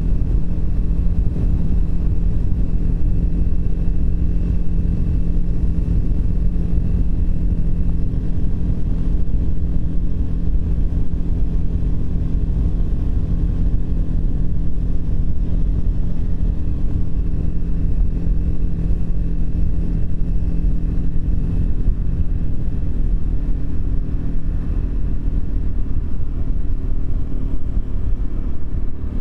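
Triumph Speed 400's single-cylinder engine running at a steady cruising pace under a continuous low rumble. Its note shifts slightly about three-quarters of the way through.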